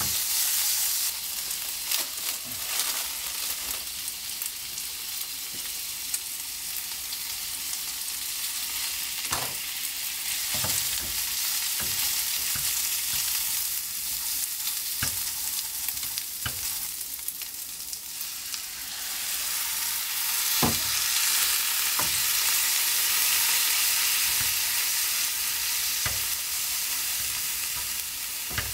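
Yakisoba stir-frying in an iron frying pan over a gas flame: a steady sizzle, with long wooden chopsticks clicking against the pan now and then as the food is turned. The sizzle grows louder about two-thirds of the way through.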